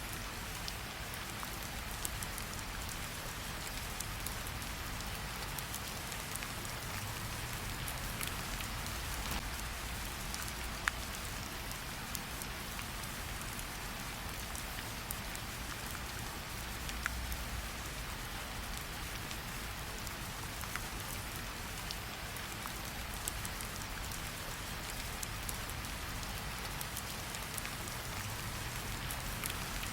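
Steady rain falling, with scattered sharp pops from a crackling campfire; one pop about eleven seconds in stands out above the rest.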